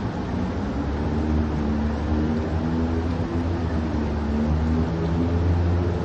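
A car's engine running with a steady low hum while it drives through deep floodwater, over a continuous hiss of rain and water.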